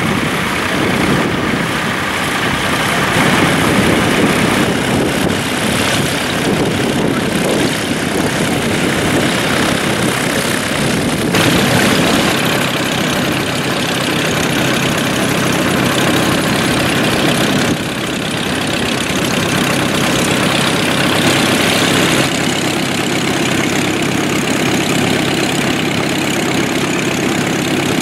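Vintage tractor engines running steadily, with abrupt shifts in the sound about 11, 18 and 22 seconds in.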